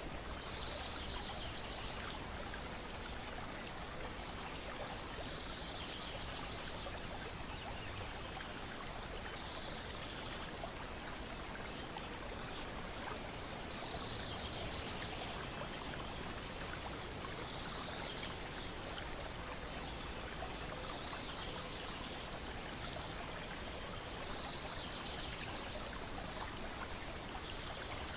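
Lake water lapping and splashing gently against a shore and wooden deck: a steady wash with soft swells every few seconds.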